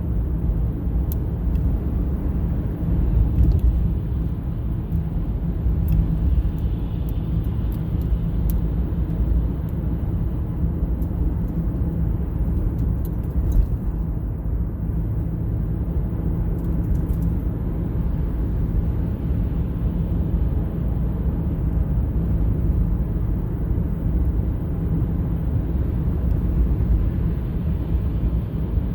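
Truck driving at a steady speed: a steady low engine and road rumble.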